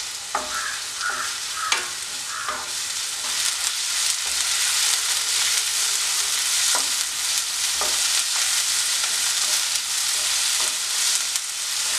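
Sliced onions, shallots and green chillies sizzling as they sauté in a non-stick pan, stirred with a wooden spatula that scrapes and knocks against the pan now and then. The sizzle grows a little louder after about three seconds.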